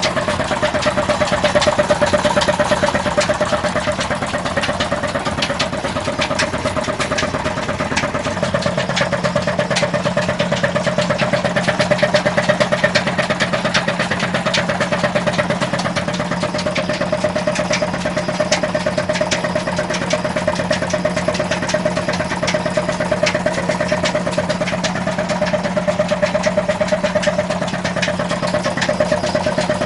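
Petter diesel engine running steadily with an even rapid clatter, with a slight change in its low tone about eight seconds in.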